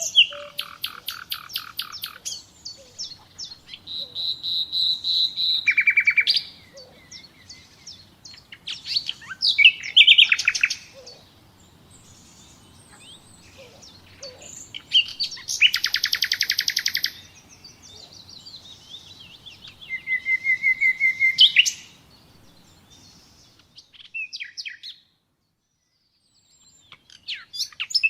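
Nightingale singing in separate phrases: fast runs of repeated notes and trills alternate with long whistles that swell in loudness, with short pauses between phrases. Near the end the song stops briefly, then one last short phrase follows.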